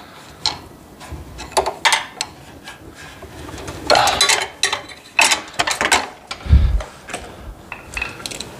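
Pliers clicking and scraping on a metal hose clamp on a snowblower carburetor's fuel inlet, working the clamp around the hose in short irregular strokes. A dull thump comes about six and a half seconds in.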